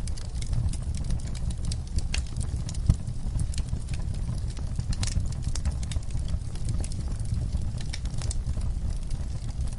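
Wood fire burning in a fireplace: a low steady rumble of flames with irregular crackles and pops, one sharper crack about three seconds in.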